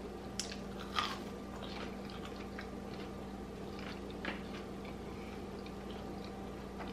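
A person chewing a bite of homemade fried dough ball with the mouth closed: faint, soft chewing with a few small clicks, about one second and four seconds in, over a steady low hum.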